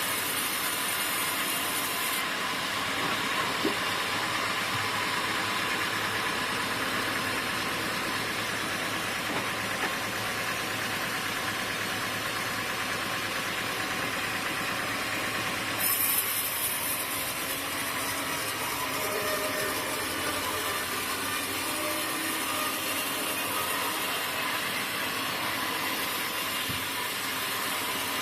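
Sawmill machinery running with a steady, noisy hiss. The sound changes abruptly about two seconds in and again about sixteen seconds in, with a brief louder burst at the second change.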